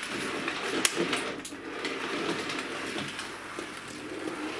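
Bachmann 00 gauge A1 Pacific model locomotive running along the track, its small electric motor and gears whirring steadily, with a few sharp clicks of the wheels over rail joints or a point about a second in.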